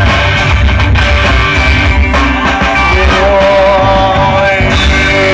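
Small rock band playing live: gliding electric guitar or vocal lines over bass and drum hits, loud.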